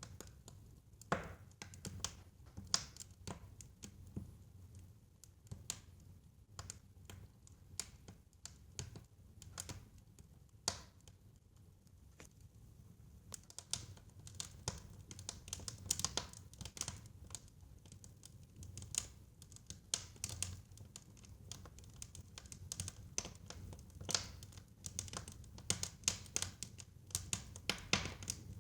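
Fireplace crackling: irregular sharp pops and snaps of burning wood over a low, steady rumble, coming more often in the second half.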